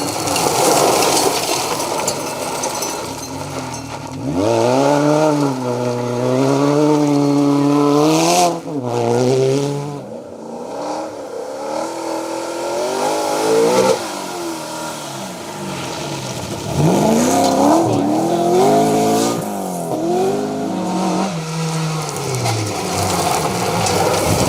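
Rally car engine revving hard, its pitch climbing through each gear and dropping sharply at the shifts, easing off in the middle before climbing again.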